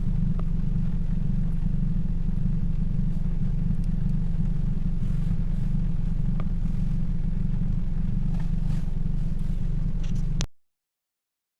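Toyota Yaris 1.5L 1NZ-FE four-cylinder engine idling steadily with an even low pulse, until the sound cuts off abruptly near the end.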